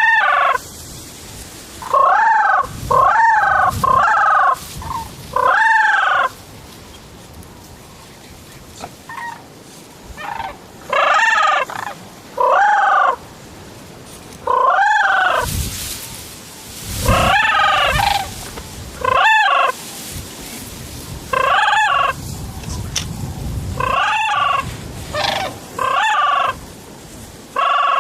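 Loud, close goose honks, repeated about seventeen times: each one is short and rises then falls in pitch, some come in quick pairs, and the gaps between them run one to three seconds.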